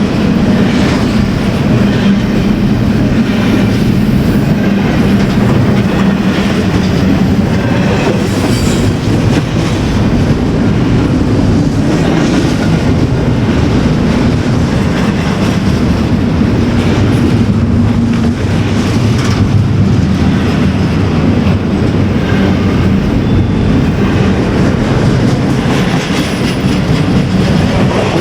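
Freight train cars rolling past at close range: a steady, loud rumble of wheels on rail with regular clickety-clack over the rail joints and a faint wheel squeal.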